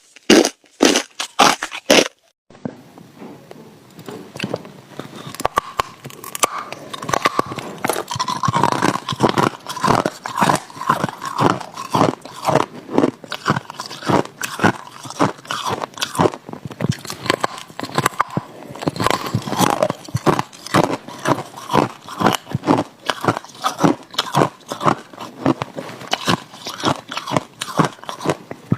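Ice being bitten and chewed close to the microphone: a few loud, sharp crunching bites, then after a cut about two and a half seconds in, a long run of rapid, rhythmic crunching as the ice is chewed.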